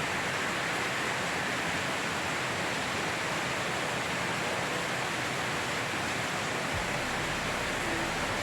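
Heavy monsoon rain pouring steadily in a storm, a dense, even hiss.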